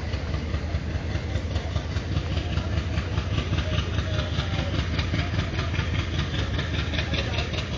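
Indian Railways express train coaches rolling past as the train pulls out, a steady rumble of wheels on the rails.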